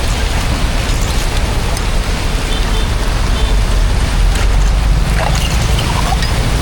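Steady, loud rushing water with a deep low rumble, broken by a few faint clicks and taps.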